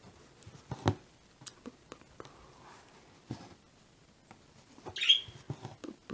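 A pet bird gives one short chirp about five seconds in, among scattered soft clicks and taps, the sharpest of them about a second in.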